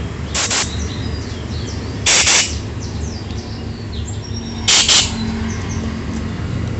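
Small birds chirping on and off over a steady low hum. Three short harsh scraping noises sound near the start, about two seconds in, and about five seconds in, and these are the loudest sounds.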